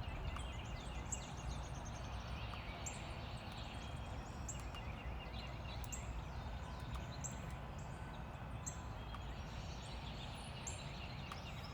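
Morning chorus of several songbirds singing and calling at once, many short repeated chirps and whistles overlapping, over a steady low background rumble.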